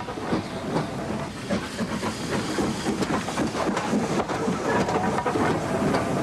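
Model steam locomotive's sound system giving a continuous hiss and quick, closely spaced chuffs as the train runs, with the model wheels clicking over the track.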